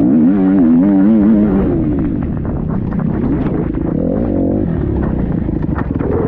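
Enduro dirt bike engine under load, its revs rising and falling quickly for the first second or so, then running hard at a steadier pitch.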